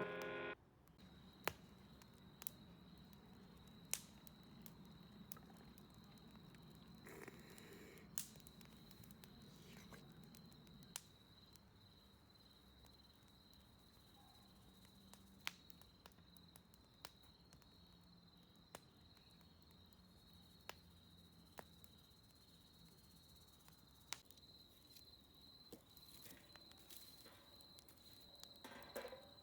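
Faint campfire crackle: single sharp pops every second or two, over a steady high insect trill.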